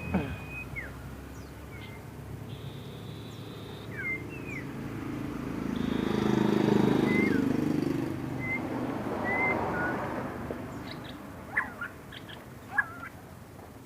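A songbird chirping in short, scattered whistled notes, with two sharper, louder calls near the end. A broad low rumbling noise swells up and fades away in the middle.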